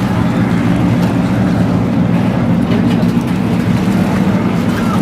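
Performance powerboat engines running steadily at low, even revs, a deep drone that holds constant throughout.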